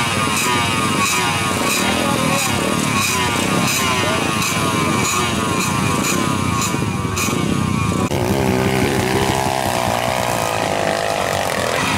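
Trail motorcycle engines running and revving. About two-thirds of the way through, the sound changes abruptly to a steadier single engine note.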